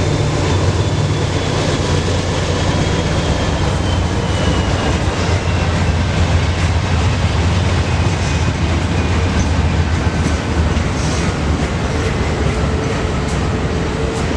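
Freight train rolling past: a steady loud rumble of railcar wheels on the rails, with a faint high wheel squeal that slowly falls in pitch and a few sharp clicks in the second half.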